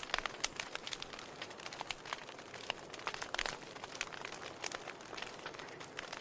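Wood fire crackling in a fireplace: irregular sharp pops and snaps over a steady hiss, with a louder cluster of pops about three and a half seconds in.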